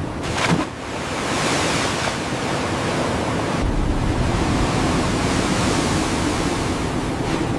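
Steady rushing noise of blizzard wind, with a brief louder gust about half a second in and a deeper low rumble joining about three and a half seconds in.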